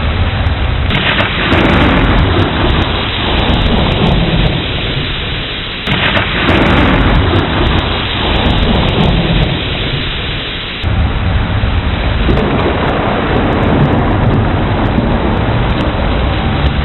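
Heavy rain falling steadily under rolling thunder. Fresh rumbles come in suddenly about a second in, around six seconds and around eleven seconds, each slowly dying away.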